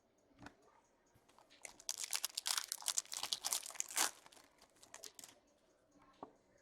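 Trading card pack wrapper crinkling and tearing as a pack is ripped open by hand. It is a dense crackle that starts about a second and a half in and lasts roughly three and a half seconds, with a few soft clicks before and after.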